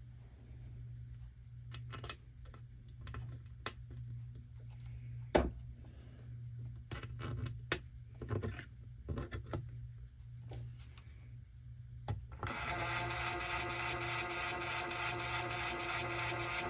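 Clicks and taps of small parts and screws being handled, then about twelve seconds in a cordless screw gun starts and runs steadily for about four seconds, backing out screws from the Uconnect unit's housing.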